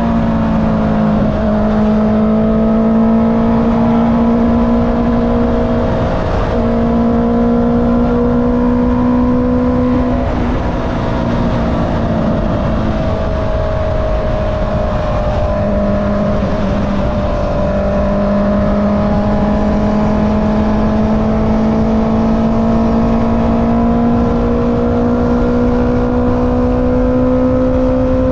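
Honda CB650R inline-four running through an Akrapovic exhaust while being ridden at fairly steady revs, with a short dip in the engine note about six seconds in, a lull around eleven to fifteen seconds in, then revs slowly climbing. Wind rumble on the microphone runs underneath.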